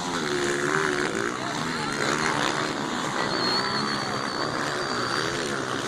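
Motocross dirt bikes' engines revving and passing, several pitches rising and falling over one another, with voices in the background.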